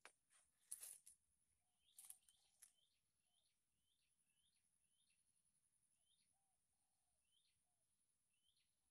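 Faint bird calls: a short high chirp repeated about twice a second, with lower notes among them. A few faint clicks come in the first three seconds.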